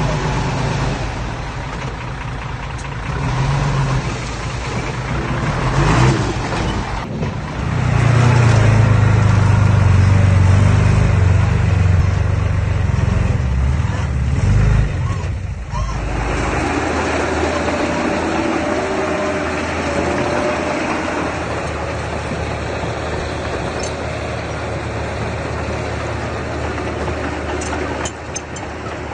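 Diesel engine of earthmoving machinery running under load. It gets louder and deeper for several seconds in the middle, drops out briefly, then settles to a steady run for the rest.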